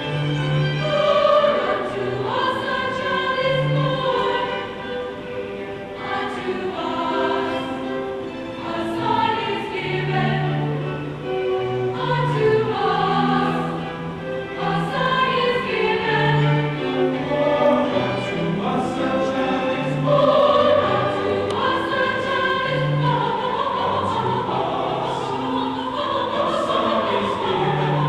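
Music: voices singing held notes over an orchestral accompaniment with a moving bass line.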